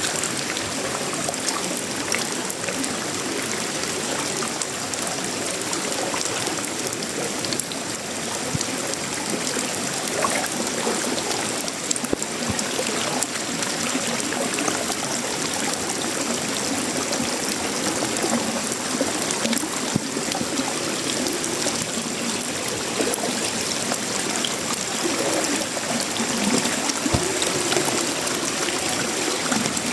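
Steady tropical rain falling on sheet-metal roofing, wood and leaves: a dense, even hiss of drops with many scattered sharper ticks.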